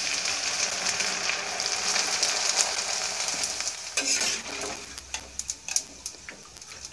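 Thick poha (beaten rice flakes) deep-frying in hot oil, a dense sizzle with crackling as the flakes are turned with a perforated slotted spoon. The sizzle thins out over the last couple of seconds, leaving scattered clicks and scrapes of the spoon.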